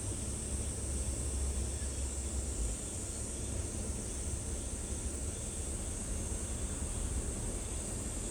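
Steady outdoor background noise: a low rumble under a constant high-pitched hiss, with no distinct bird call standing out.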